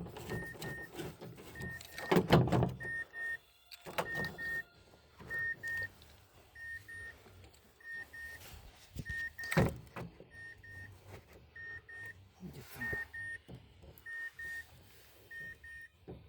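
Work on a Mazda CX-7's power-window assembly inside the door: scattered clunks and knocks, loudest about two seconds in and again near the middle. Under them a faint short double beep repeats steadily throughout.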